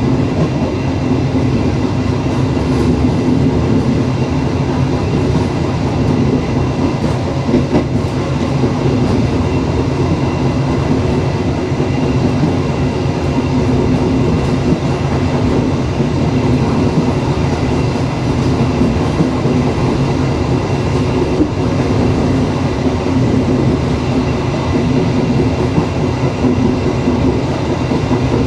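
Passenger train rolling along the track: a steady, loud rumble of the carriage with faint rail clicks now and then.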